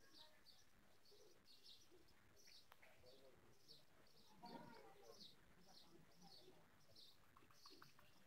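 Faint, repeated high chirping of small birds, about two chirps a second, with a brief low sound about halfway through.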